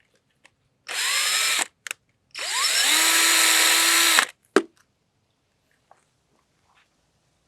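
Power drill boring out a broken bolt, run in two bursts: a short one, then a longer one of about two seconds. The motor whine rises as it spins up each time. A sharp click follows just after the drill stops.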